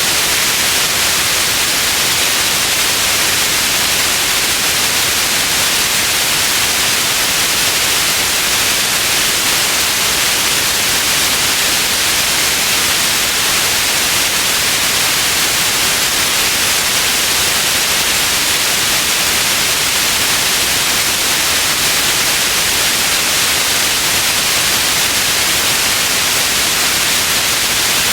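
Steady white noise: an even, unchanging hiss, strongest in the upper range, with no other sound.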